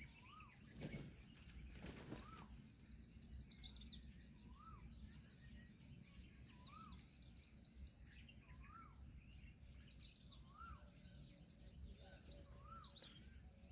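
Faint bird calls: a short rising-and-falling whistled note repeated about every two seconds, over runs of rapid, high-pitched chirping.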